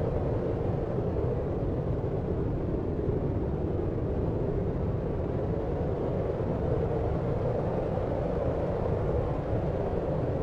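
Steady deep sleep noise, brown-noise-like: an even, low rumbling hiss with most of its weight in the bass and little treble, unchanging throughout.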